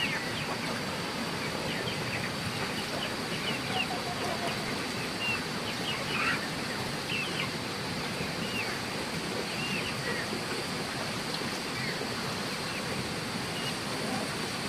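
Birds chirping: many short, high calls scattered over a steady rushing noise.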